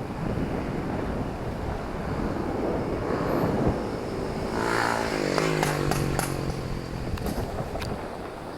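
Street traffic rumble with a motor vehicle passing close by a little past halfway, its engine pitch dropping and then holding steady. A few sharp clicks come near the end.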